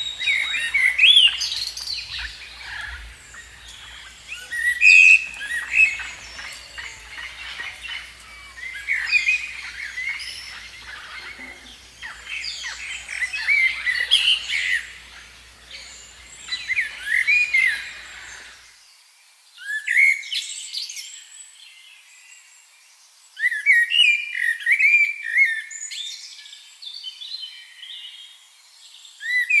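Birds singing in repeated bursts of quick, rising and falling chirps, with pauses between phrases. A low background rumble under the song stops abruptly about two-thirds of the way through, leaving only the chirping.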